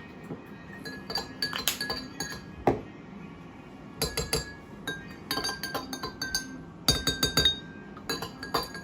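Spoons stirring water in drinking glasses, clinking against the glass in quick runs of ringing taps, mixing in squirted liquid water flavouring.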